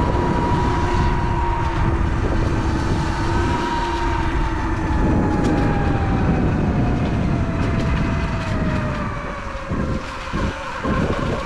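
Sur-Ron Light Bee X electric dirt bike's motor whining while riding, its pitch falling slowly as the bike slows, over heavy low wind rumble on the microphone.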